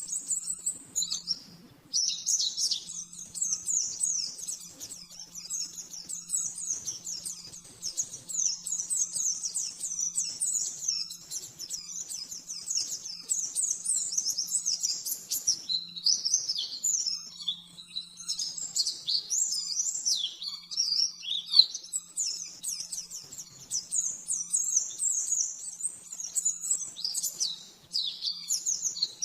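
White-eye (pleci) singing a long, rapid, high-pitched twittering song in the fast 'nembak' (shooting) style kept for masteran song-tutoring. It breaks off briefly about a second in and again near the end.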